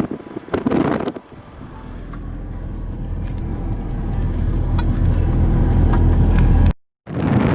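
Low rumble of a moving vehicle that grows steadily louder over several seconds, with light rattling clicks. It cuts off abruptly near the end and gives way to wind noise on the microphone.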